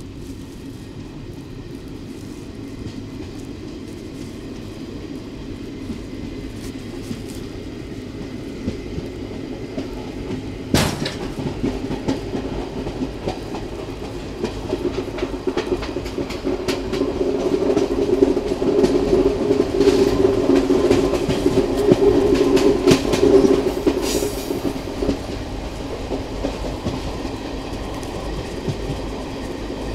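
Passenger train coaches running along the track, the wheels rumbling and clacking over rail joints, with sharp clicks throughout and one loud click about eleven seconds in. The rumble grows louder and fuller past the middle, then eases near the end.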